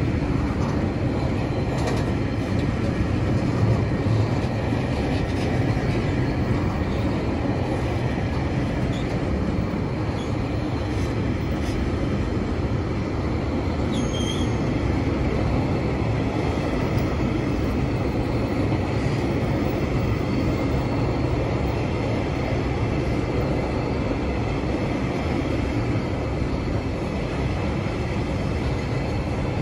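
Freight train of empty log wagons and container wagons rolling steadily past over a level crossing, a continuous rumble of wheels on rail. A brief high wheel squeal cuts in about 14 seconds in.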